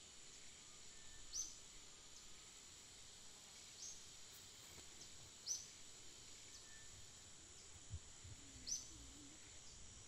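Faint outdoor ambience: a steady high insect buzz, with a bird giving a short chirp four times. A soft low thump comes about eight seconds in.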